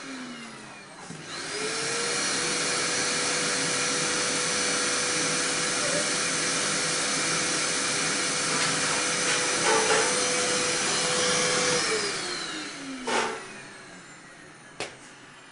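Vacuum cleaner motor spinning down, then switched on again about a second in and running steadily for around ten seconds before it is switched off and winds down, with a click near the end.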